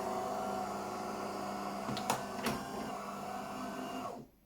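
De'Longhi Magnifica EVO coffee machine's water pump buzzing steadily through the start-up rinse, with two sharp clicks in the middle, then cutting off suddenly near the end as the rinse finishes and the machine comes ready.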